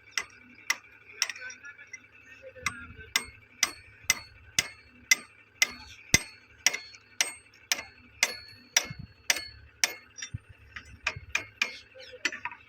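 Sharp metallic taps repeated at an even pace of about two a second, some with a short ring after them, typical of steady tapping with a tool on metal fittings.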